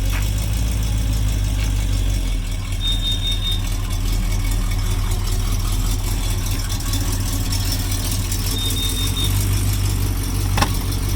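1991 Jeep Grand Wagoneer's AMC 360 V8 idling steadily after a cold start, with a sharp click near the end.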